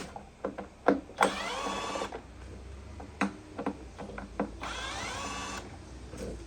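Small cordless screwdriver running twice, each run under a second and rising in pitch, as it backs out the T27 screws of a Stihl BR600 blower's plastic housing. Clicks and knocks of tools and plastic parts come between the runs.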